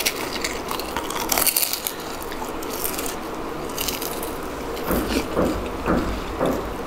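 Close-miked eating sounds: crunchy bites and chewing of crisp food, with a cluster of louder crunches near the end.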